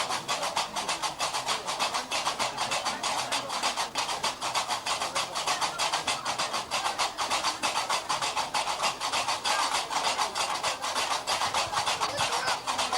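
Gnawa qraqeb, iron castanets, clacking in a fast steady rhythm of about six strokes a second.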